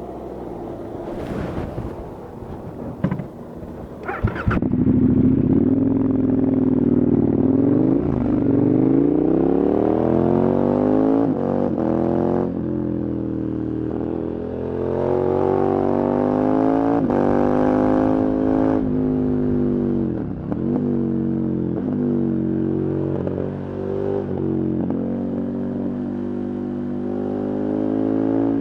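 KTM 1290 Super Adventure's V-twin engine under acceleration. After a quieter start with a few clicks, its pitch rises and falls through the gears, with brief dips at the shifts and as the throttle is rolled off and on.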